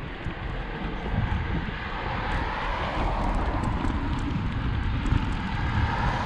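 Wind rumbling on the microphone while riding, with a steady motor noise swelling over it from about a second in.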